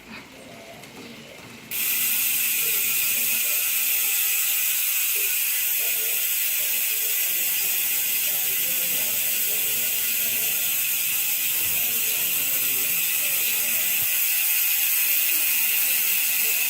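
Koozer XM460 bicycle rear hub freewheeling: its six pawls click over the 72-point ratchet in a continuous high buzz. The buzz starts suddenly about two seconds in and holds steady.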